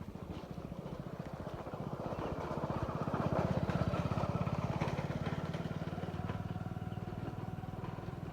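A motor vehicle's engine running with a fast, even chug. It grows louder to a peak a few seconds in, then slowly fades, as if passing by.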